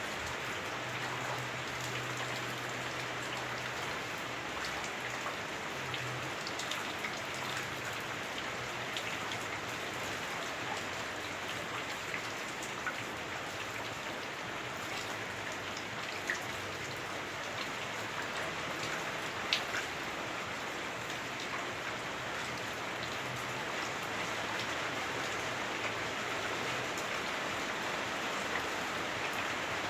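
Heavy rain heard from inside a house through the roof: a steady hiss with scattered sharper drop ticks. A faint low hum comes and goes underneath.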